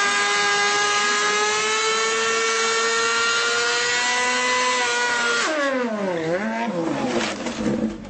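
A motorcycle engine at high revs, its high whine climbing slowly for about five seconds. About five and a half seconds in, the pitch drops sharply and then climbs back.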